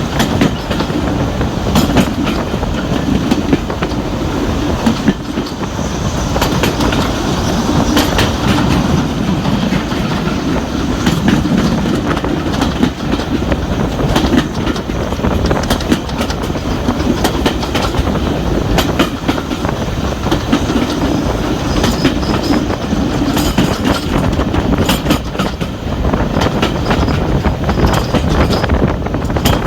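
Passenger train running at speed behind a steam locomotive: a steady rumble with the carriage wheels clicking and clattering irregularly over rail joints.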